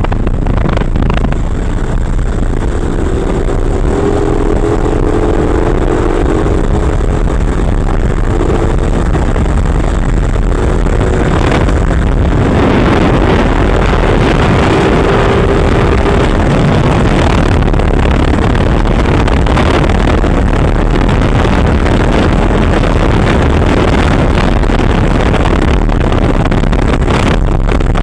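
Motorcycle engine running while riding, under heavy wind rumble on the microphone; a faint engine note rises slightly in pitch between about three and sixteen seconds in.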